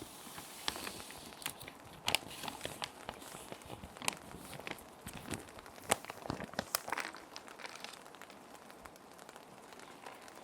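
Plastic sheet protectors crinkling and rustling in irregular sharp crackles as paper sheets are handled and slid into them, over a steady hiss of rain sounds. The crinkling thins out after about three quarters of the way through.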